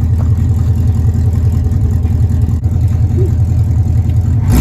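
A vehicle engine running steadily at idle, a low, even rumble, with a sudden sharp knock near the end.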